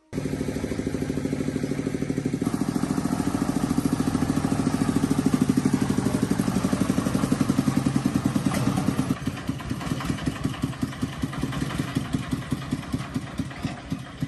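Truck engine idling with a fast, even firing pulse. About nine seconds in, the running turns quieter and less even.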